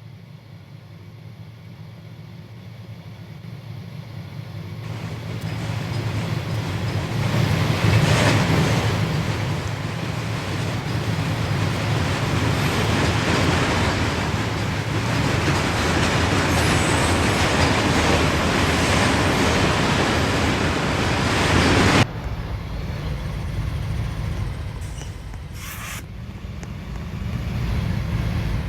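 Loud vehicle noise over a steady low rumble, building over the first eight seconds, holding steady, then dropping off sharply about 22 seconds in.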